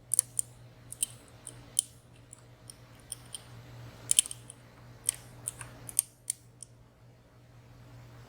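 Lock picks working inside a WSW W10 slider-and-pin padlock: a string of sharp, irregular metallic ticks as the sliders and pins are probed and set, stopping about two-thirds of the way through. A low steady hum runs underneath.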